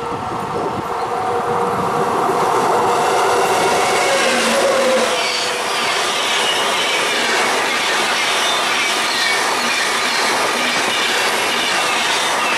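WAP-7 electric locomotive passing at speed: its electrical hum grows louder and drops in pitch as it goes by about four seconds in. Then the passenger coaches rush past with rolling wheel noise, clickety-clack and thin high wheel squeal.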